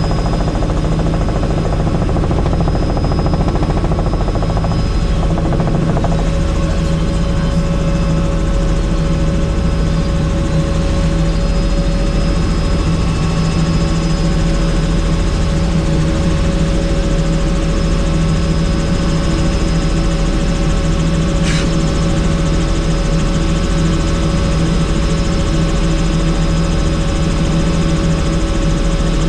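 Helicopter in flight: steady engine and rotor noise with a constant pitch and level.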